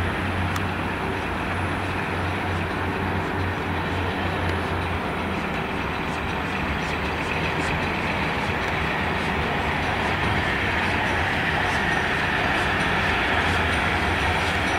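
Trains moving through a station: a Class 175 diesel multiple unit's engines running as it pulls away, while LMS Jubilee 4-6-0 steam locomotive 45690 Leander rolls slowly in with a coach, a steady rumble and hiss. Wheel clicks over rail joints start near the end.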